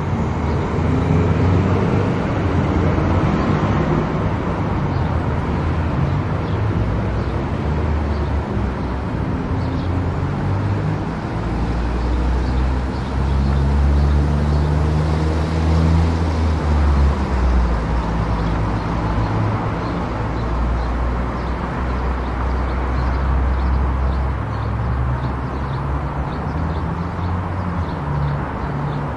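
Car driving along a road: steady engine and tyre noise, with the engine's low note rising and falling a few times, heaviest about halfway through.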